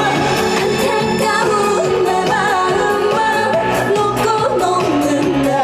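Live trot song: a woman singing with vibrato over a loud backing track.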